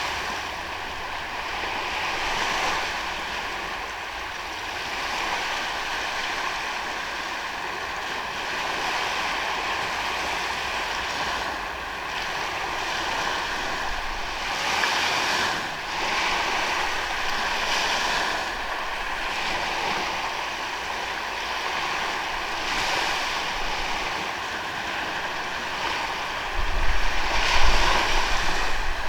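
Ocean surf washing onto a beach, swelling and easing every few seconds as waves break. Near the end, wind gusts buffet the microphone with a low rumble.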